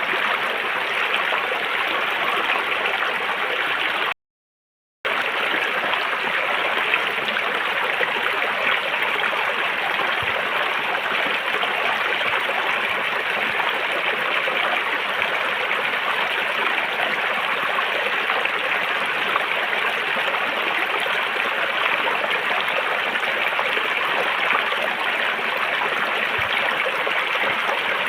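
River water flowing steadily, an even rushing sound. It drops out to complete silence for under a second about four seconds in.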